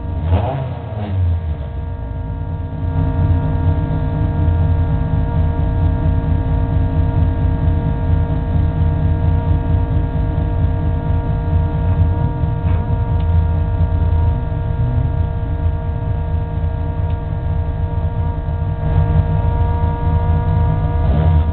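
A race car's engine idling, heard from inside the stripped, roll-caged cabin: a steady low throbbing rumble with several steady whining tones over it. A brief rise and fall in pitch comes right at the start.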